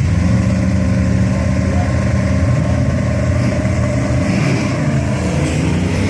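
Car engine running at a drag strip: a steady engine note that dips and then climbs back in pitch partway through.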